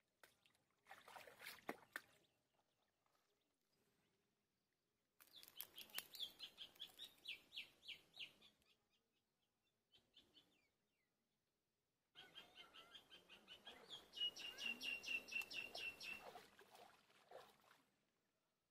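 A bird calling in three bouts of quick, high repeated notes, about five a second; the last bout is the longest and loudest.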